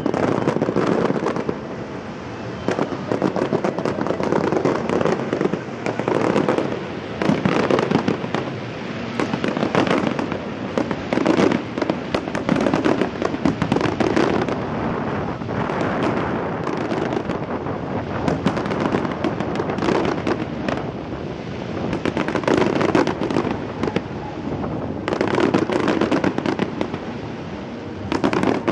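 Fireworks display: a dense, unbroken run of bangs and crackles, many bursts overlapping, swelling and easing in waves.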